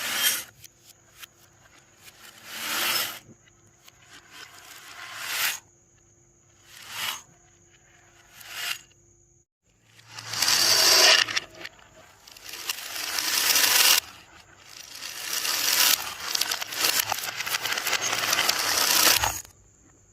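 Marbles rolling down a HABA wooden slope marble run, each run a rolling rattle that builds and then stops. Several runs follow one another, and the last two last a few seconds each.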